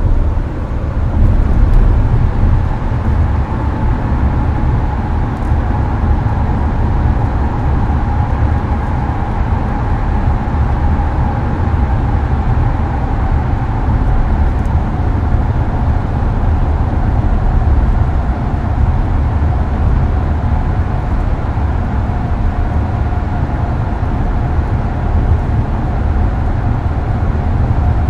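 Hyundai Avante cruising on an expressway, heard from inside the cabin: steady low tyre and road rumble with air-conditioner fan noise and a faint whine that drifts slightly lower.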